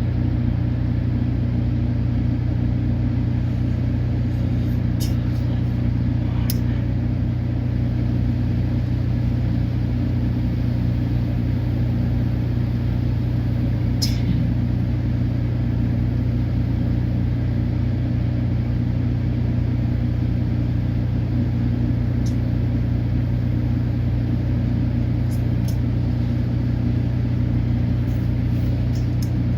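A steady low mechanical hum from a running motor, unchanging throughout, with a few faint clicks.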